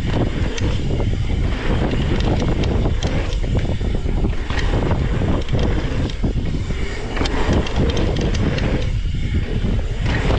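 Wind buffeting the camera microphone on a fast mountain bike descent, with the tyres rolling over dirt and the bike rattling and clicking over bumps.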